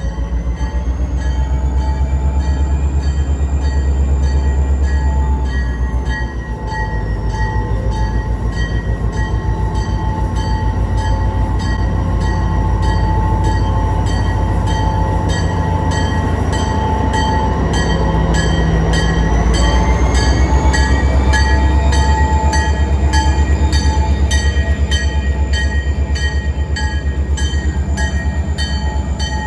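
Diesel freight locomotive running with a heavy low rumble and a steady whine. The pitch drops about five seconds in as the throttle eases off, and climbs again about two-thirds of the way through as the engine loads up.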